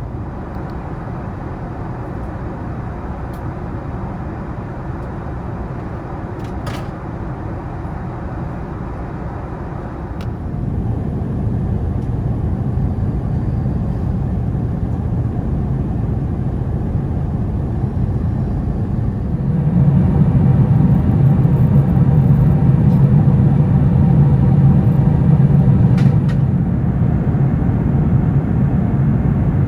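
Steady low cabin drone of an Airbus A380 in flight, from its four Rolls-Royce Trent 970 engines and the airflow, heard from the upper deck. It gets louder in two steps, about ten and twenty seconds in.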